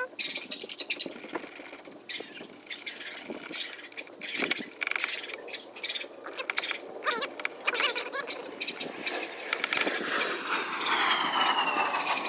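Small metallic clicks and knocks of a hand tool and screws as four 8 mm bolts are threaded back into the quad's exhaust bracket. Near the end a noise swells, with a falling whine.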